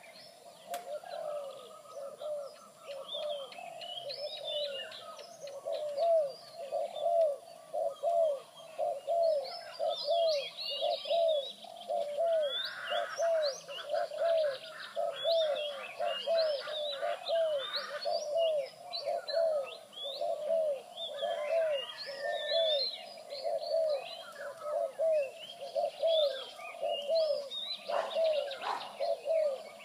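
A caged bird calling in a long, even series of short, low, arched cooing notes, a little over one a second, said to be very aggressive. Other birds chirp higher up now and then.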